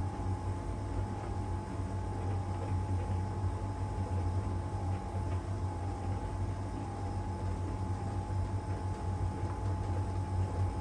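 LG heat pump tumble dryer running steadily mid-cycle, drum turning one way during the drying phase: a constant low hum with a steady higher whine over it, and a few faint ticks from the tumbling load.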